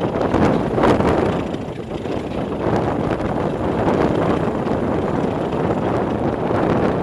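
Steady rush of wind buffeting the microphone out of an open coach window, over the running noise of a moving diesel-hauled train, with a few faint clicks.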